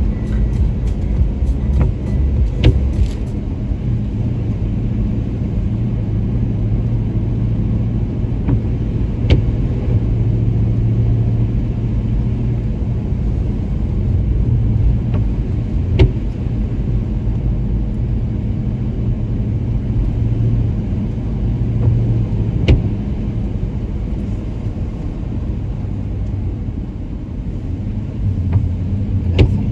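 Car driving up a snow-covered road, heard from inside the cabin: a steady low rumble of engine and tyres, with a sharp click about every six or seven seconds.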